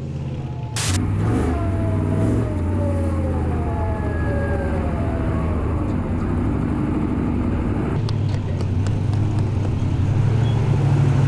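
Car engine and road noise while driving, a steady low drone, with a sharp click about a second in.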